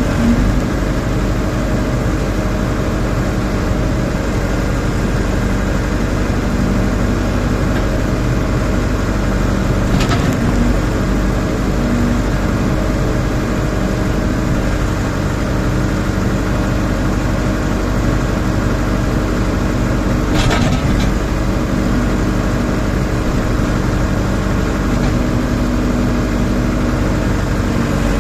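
Rondon backhoe loader's diesel engine running steadily, with a sharp knock about ten seconds in and another about twenty seconds in.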